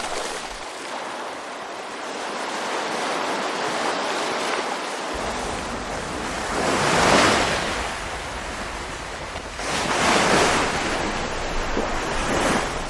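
Ocean waves breaking and washing in, a steady hiss of surf that swells twice, about seven and ten seconds in.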